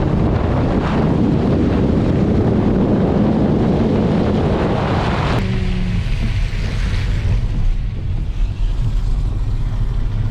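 Loud rushing noise of wind buffeting the microphone, which cuts off abruptly about five seconds in, leaving a steady low rumble.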